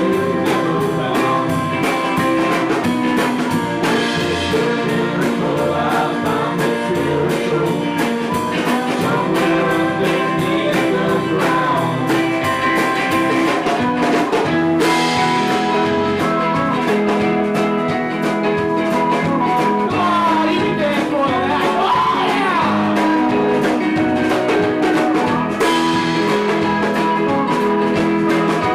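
Live rock band playing a song: a drum kit keeps a steady beat under the instruments, with a voice singing.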